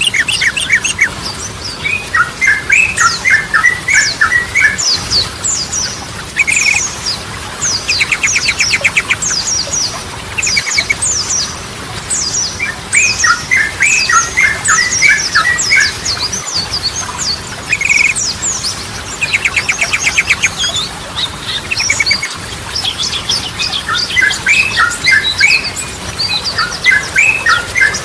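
Sooty-headed bulbul (trucukan) singing: bursts of quick bubbling notes, a short phrase that comes back about every eleven seconds, broken by a fast rattling trill, over a steady chatter of thin, high chirps.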